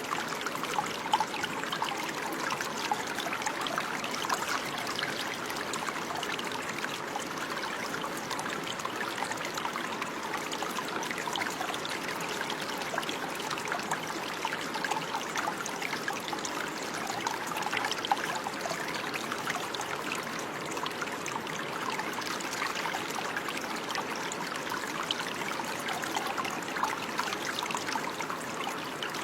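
Running water, a stream or brook flowing and trickling with a steady bubbling babble.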